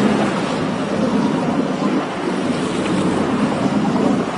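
Sportfishing boat's engine running steadily at sea, with wind buffeting the microphone and water rushing past the hull.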